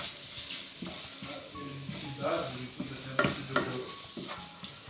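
Spice paste sizzling as it is sautéed in hot oil and stirred in the pan, with a few sharp knocks scattered through.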